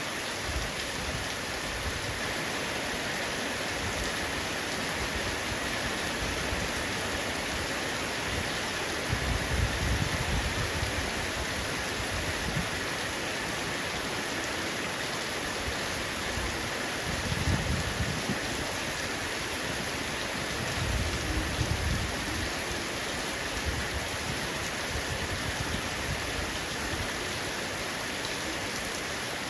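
Heavy rain falling on a roof: a steady, even hiss of drops, with three short low rumbles swelling up about nine, seventeen and twenty-one seconds in.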